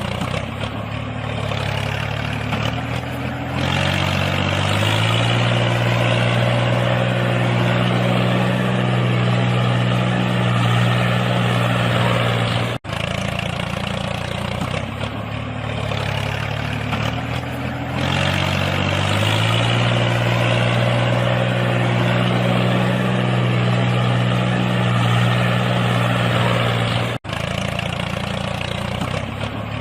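Engine running at a low idle, then picking up speed about three to four seconds in and holding steady. It cuts out abruptly around thirteen seconds and the same sequence starts over, cutting out again near the end.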